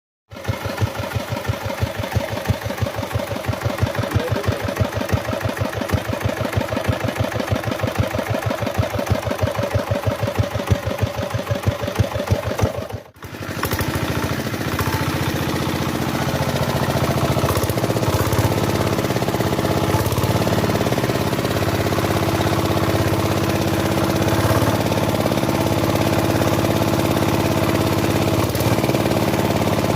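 Dongfeng 8 hp single-cylinder diesel engine running with a regular chugging beat; about 13 seconds in the sound briefly drops out, then the engine runs on with a smoother, steadier tone.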